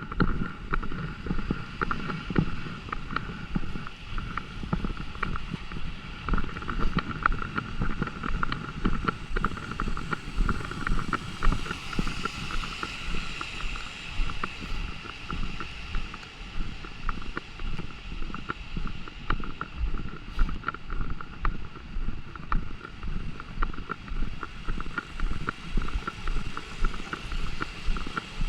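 Footsteps of a walker on wet pavement, about two a second, over a steady outdoor background of rain and city hum with a faint even tone.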